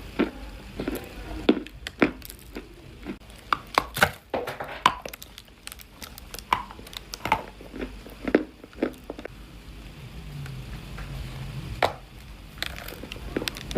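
Chunks of dry clay being crunched, a string of sharp, irregular crunches and cracks that thin out after about ten seconds.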